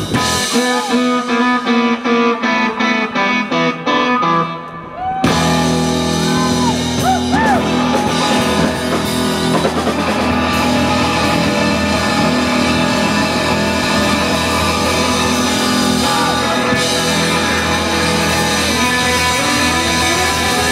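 Live rock band playing. For the first five seconds guitar plays without the bass and drums, which come back in about five seconds in under bending guitar lines.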